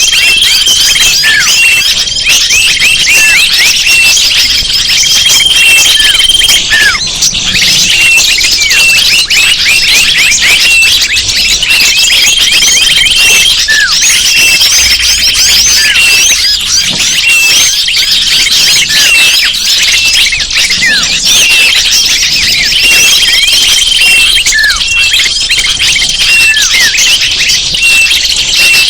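Bird-lure recording of many small birds calling at once: a loud, unbroken mass of chirps and downward-sliding notes. Drawn-out high whistles recur every few seconds.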